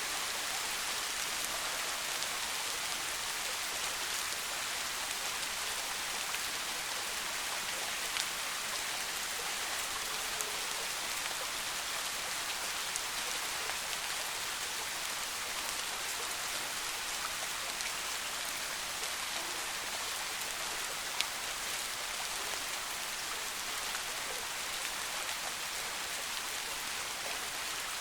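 Steady soft rain falling in a forest, an even hiss with occasional separate drops ticking, one a little louder about 21 seconds in.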